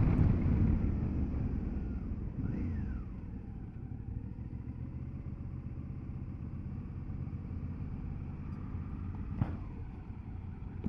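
Motorcycle engine running under way, with wind rushing over the rider's microphone. The wind noise is loud at first and fades over the first few seconds, leaving a quieter, steady engine sound with a brief rise and fall in pitch a few seconds in.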